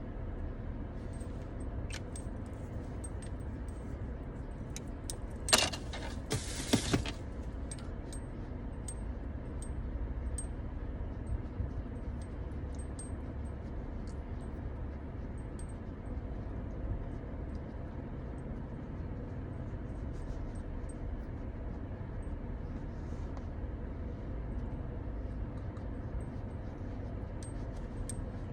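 Small objects handled with scattered light clicks, and a brief louder clatter about six seconds in, over a steady low rumble.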